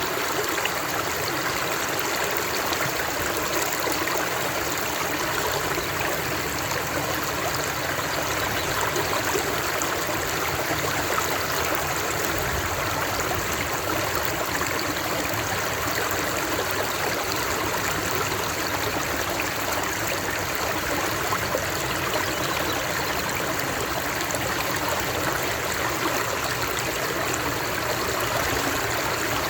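Water of a stream running over rocks, a steady even rushing and babbling with no breaks.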